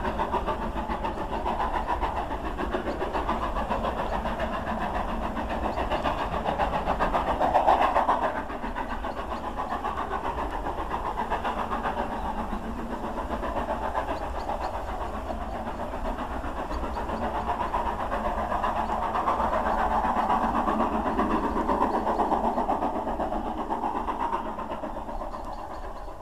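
A train running close by on the line: a dense, continuous mechanical rumble that grows to a peak about eight seconds in, drops off sharply, swells again later and fades near the end.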